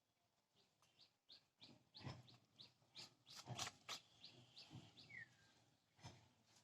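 Faint bird chirping: a quick series of short, high chirps, with one falling note about five seconds in. A few soft knocks come in between the chirps.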